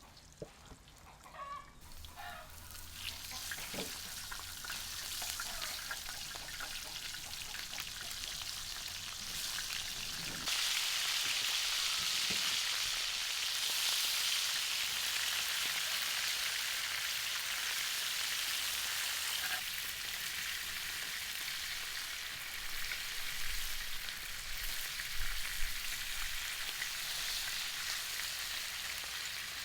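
Food frying in a hot pan, a steady sizzle that comes in a couple of seconds in, builds, and gets suddenly louder about ten seconds in.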